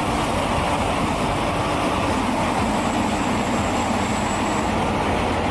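Heavy machine's engine running steadily, a dense unchanging rumble.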